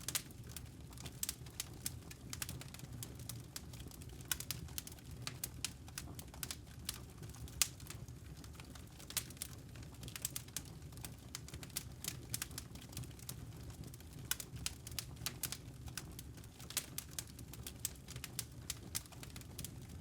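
Campfire burning: firewood crackling with frequent irregular sharp pops over a low, steady rumble of the flames.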